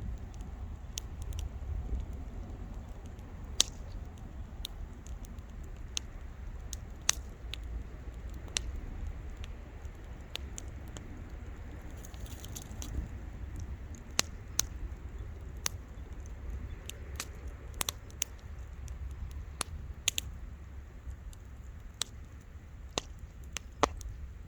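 Wood campfire crackling: irregular sharp pops and snaps, a handful louder than the rest, over a low steady rumble.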